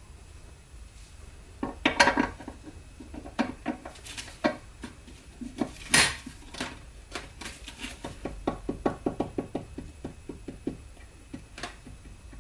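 Metal tools and transmission parts being handled: scattered metallic clinks and knocks, then a run of quick, fairly even clicks in the second half.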